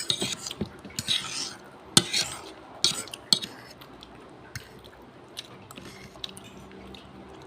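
Cutlery clinking and scraping against a plate of palabok noodles, with sharp clinks about two, three and three and a half seconds in, then quieter.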